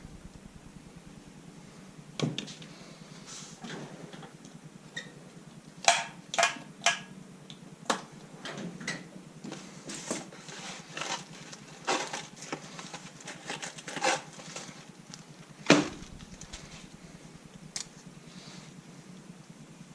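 Metal tools and engine parts clinking and clanking irregularly, a dozen or so sharp knocks, the loudest about six and sixteen seconds in.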